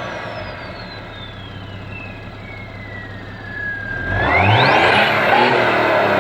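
BMW 335d twin-turbo straight-six diesel, running with its DPF deleted and no rear silencer. The turbo whistle falls slowly in pitch as the revs settle back. About four seconds in the engine is revved and the whistle sweeps sharply up in pitch as the exhaust note gets louder.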